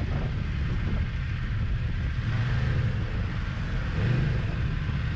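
Motorcycle engine running at steady, low revs, with wind rushing over the microphone.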